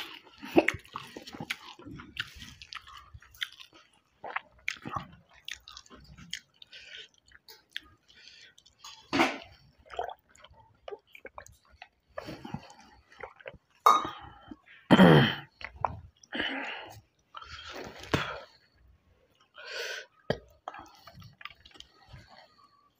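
Close-up eating sounds: a man chewing mouthfuls of rice with green-chilli thokku, with wet mouth clicks and the squelch of rice being mixed by hand. About 15 s in comes a louder short voiced sound from him that falls in pitch.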